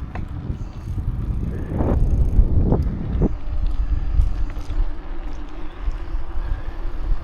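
Wind rumbling on the microphone over the road noise of a bicycle being ridden, with three short, sharp sounds about two to three seconds in.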